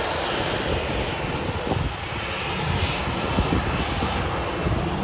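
Jet engines of a Boeing 737 airliner going past, a steady rumble of engine noise.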